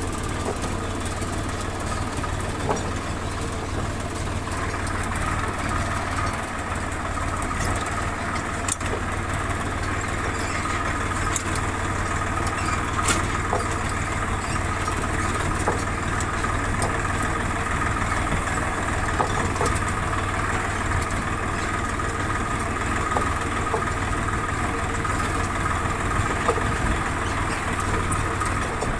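Farm tractor's diesel engine running steadily, with a few faint rattles and clicks now and then.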